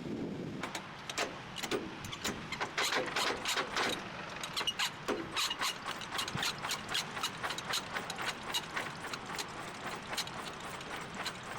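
Rapid mechanical clicking, irregular at first and then settling into a fairly even run of about four or five clicks a second, over a faint low rumble.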